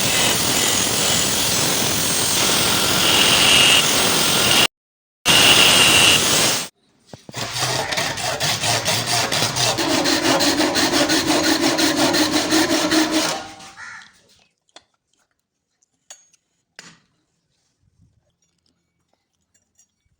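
Steel being worked with tools: a steady, loud grinding-like noise with a high whine, cut off twice, then rapid rhythmic rasping strokes of about five a second, like sawing or filing metal. The strokes stop about two-thirds of the way in, leaving a few faint clicks.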